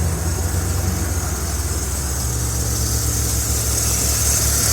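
Pickup truck engine idling steadily, with a faint high hiss over the low hum. It carries the noise the owner is complaining about, which they later put down to a worn belt tensioner, with no bearing left, rubbing against the engine block, though they are not sure it is the whole issue.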